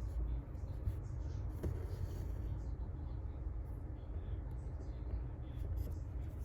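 Faint scratching and ticking of hand embroidery: a needle and thread being pulled through fabric stretched in a hoop, with a small click about one and a half seconds in. Under it runs a low steady rumble.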